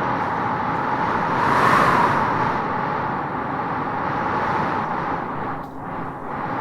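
Wind gusting through trees: a steady howling rush that swells about two seconds in and eases briefly near the end.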